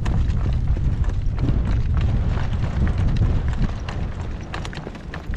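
Strong wind buffeting the microphone in a heavy low rumble, with a horse's hooves clopping at irregular intervals as it pulls a cart.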